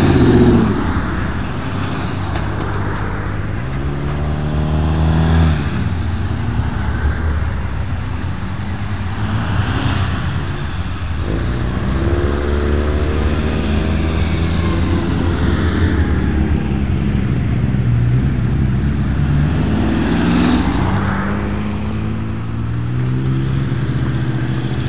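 Hot rods and other modified cars driving past one after another. Each engine rises in pitch as the car accelerates away, several in turn.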